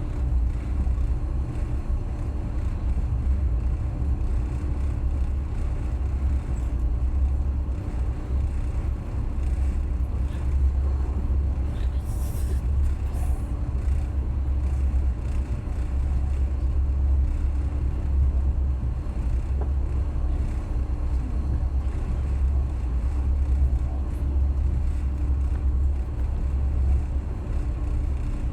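Passenger train running at speed, a steady low rumble from the wheels and carriage heard from on board, with a brief hiss about twelve seconds in.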